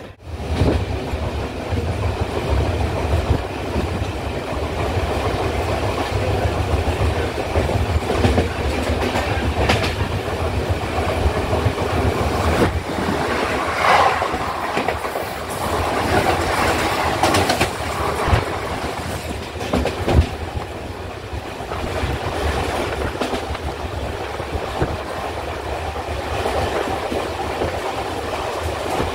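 Mumbai suburban local train running at speed, heard from on board: a steady rumble with wheels clacking over rail joints. About halfway through, another local train rushes past close alongside and the noise swells for a few seconds.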